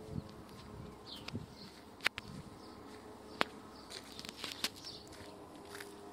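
Outdoor natural ambience: a faint steady insect buzz with a few short, high bird chirps, and two sharp clicks about two and three and a half seconds in.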